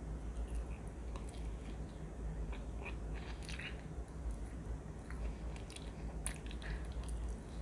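A person biting grilled chicken off a wooden skewer and chewing it, with small mouth clicks and crackles scattered throughout.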